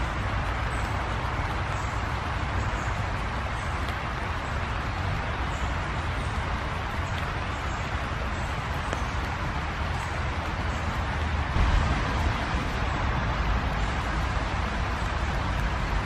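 Steady outdoor background noise: a low rumble and hiss like distant road traffic, swelling briefly about twelve seconds in, with a few faint high ticks.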